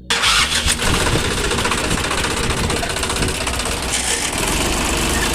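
An engine starts abruptly and keeps running steadily.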